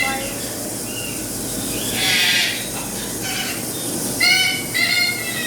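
Parrots calling: a series of short, loud, high-pitched squawks, with a harsher, rougher screech about two seconds in and two strong calls close together near the end.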